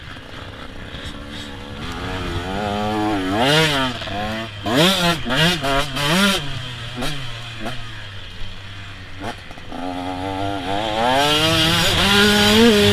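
KTM 125 SX two-stroke motocross bike's engine revving hard and easing off again and again between about 2 and 7 s, with rising and falling pitch sweeps through the gears. It drops back for a few seconds, then climbs to high, held revs near the end.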